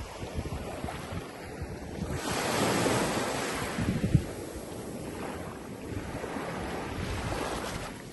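Surf washing onto a beach, with wind buffeting the microphone. A wave's wash swells up about two seconds in and fades, and another builds near the end.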